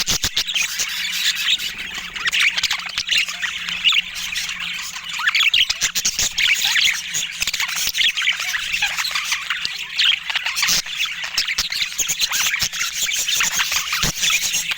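Budgerigars chattering: many fast, overlapping chirps and squawks with no pause, and a few sharp clicks.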